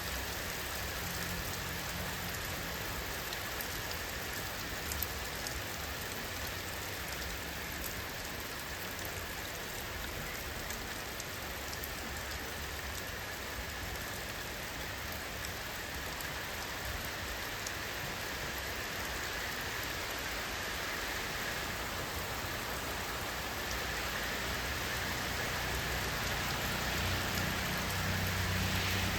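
Steady rain falling: an even hiss with scattered ticks of drops striking a surface, and a low rumble swelling near the end.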